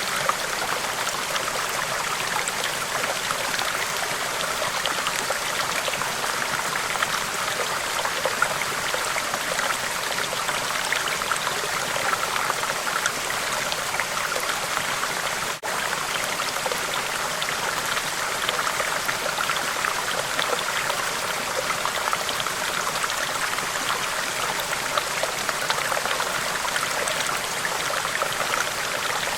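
River water flowing steadily over rocks, a continuous splashing noise, with a momentary break about halfway through.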